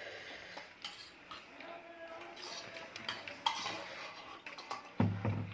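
Spoon and plate clinking now and then while food is eaten: light, scattered clicks of metal on a dish.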